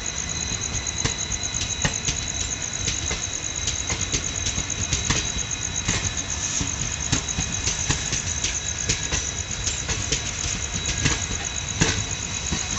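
Passenger train running on the track: a steady rumble with many sharp clicks and knocks of the wheels over rail joints.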